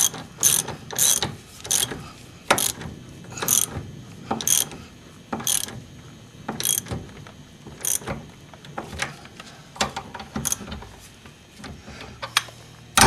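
Socket ratchet wrench clicking in short bursts while working nuts on the front-end steering linkage. The bursts come about twice a second at first, then slow to roughly one a second and become irregular.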